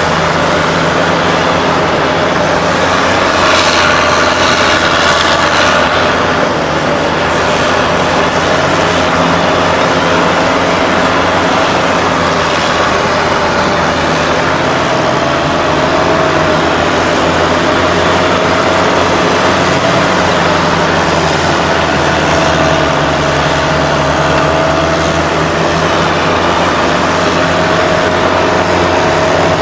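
All-terrain swamp vehicle under way, its engine running steadily with a constant whine above the drone.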